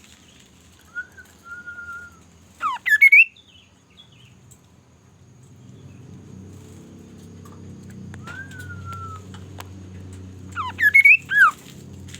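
A bird singing two phrases, each a soft, level whistle followed by a few loud, rising, sweeping notes. A low rumble rises beneath the second phrase.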